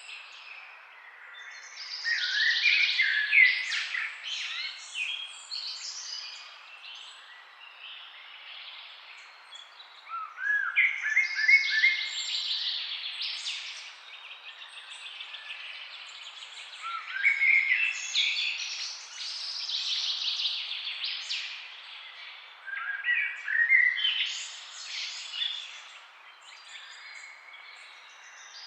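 A songbird singing in repeated bouts, a long warbled phrase about every six or seven seconds, each opening with a few short rising notes, over a faint steady hiss.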